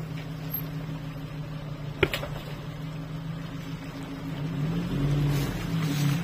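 Off-road 4x4's engine running steadily at low revs, with one sharp knock about two seconds in; near the end the engine speed rises and falls a few times.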